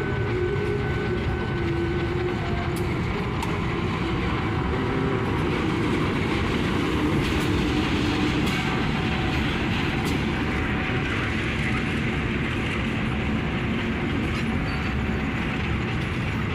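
Passenger train running past, a steady rumble of wheels on rail with clickety-clack, slightly loudest about halfway through.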